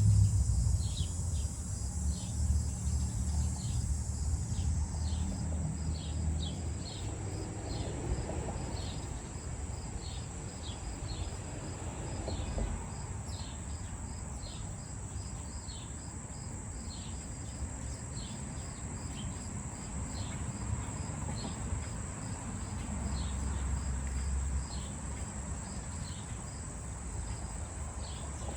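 Late-summer evening insect chorus: a steady high-pitched trill with many short high chirps repeating over it. A low rumble fades out over the first few seconds and swells again briefly about 23 seconds in.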